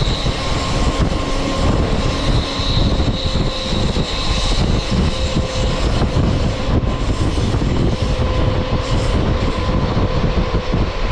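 Passenger train running along the track, heard from on board: a loud, steady rumble of wheels and rails. A faint high-pitched whine comes and goes.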